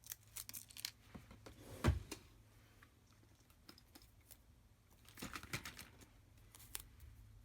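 Paper and craft pieces handled on a tabletop: light rustling and small clicks, a single knock about two seconds in, and a brief burst of rustling a little past five seconds.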